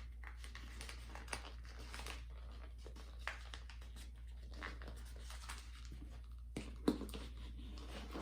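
Stiff poster board being folded and creased by hand: faint rustling and scraping, with a couple of sharper taps or clicks near the end, over a steady low hum.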